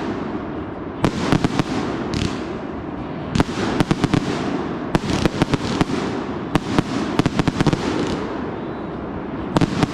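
Consumer fireworks going off in a continuous barrage: clusters of sharp bangs and crackles every second or two, over an unbroken rumble of noise.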